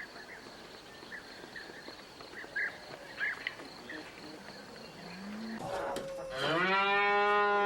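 A cow mooing: a short rising low note about five seconds in, then one long, loud moo from about six and a half seconds in. Faint bird chirps come before it.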